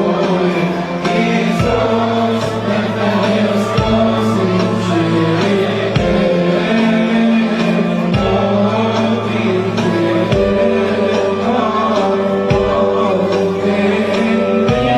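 A choir singing a Christmas hymn, with a low accompaniment whose bass note changes on a beat about every two seconds.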